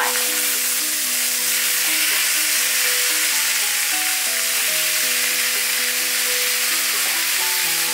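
Thin-sliced beef frying with onion and carrot in a hot pan: a steady sizzle. Under it runs background music of slowly changing held notes.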